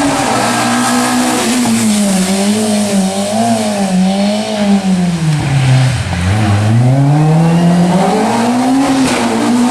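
Engine of a small Fiat rally car running hard, its pitch rising and falling with the throttle, then dropping steeply about six seconds in before climbing back up as it accelerates again.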